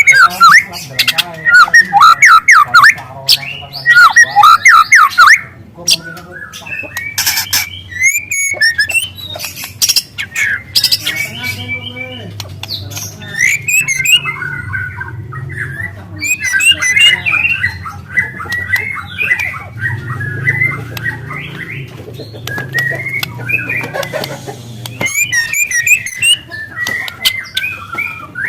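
Juvenile white-rumped shama singing a fast, varied song of chattering trills and whistles, with long, loud canary-like phrases. The first five seconds are the loudest, after which the song goes on in quicker, softer runs.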